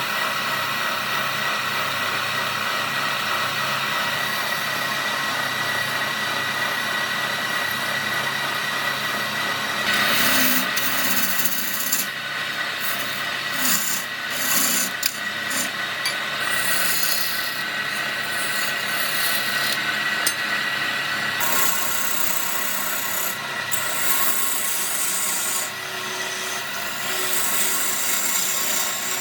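Electric power tool abrading wood: a steady motor whine under a rough rasping as the tool works the surface. The rasping comes in harsher, uneven spurts between about 10 and 22 seconds in.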